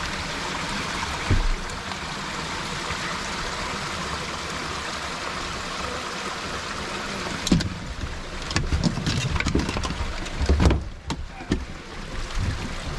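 Lake water rushing steadily into and around a crashed rally car as it sinks, then, from about halfway, irregular splashing with sharp knocks and thumps as the crew scramble out through the water.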